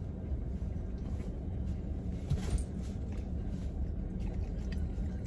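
Car engine idling, a steady low rumble heard inside the cabin, with a few faint ticks.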